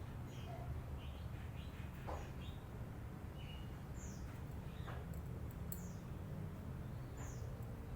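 Lovebird chattering in short, high chirps that fall in pitch, scattered irregularly over a steady low hum.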